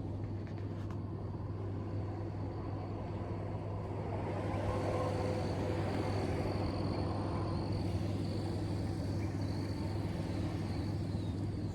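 Steady low outdoor hum with a rushing noise that swells about four seconds in and fades after about eight, over a faint steady high tone.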